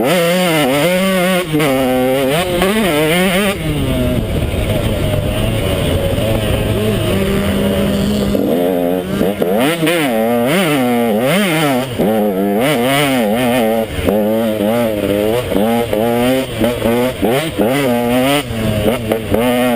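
KTM 150 XC two-stroke dirt bike engine ridden hard off-road, revving up and down over and over, with a steadier stretch in the middle.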